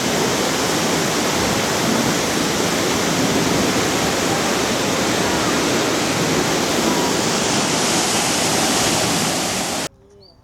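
Waterfall's steady rush of falling water, cutting off abruptly near the end.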